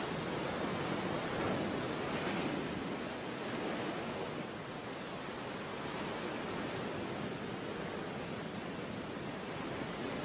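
Sea waves washing on the shore: a steady rushing surf, swelling a little about two seconds in.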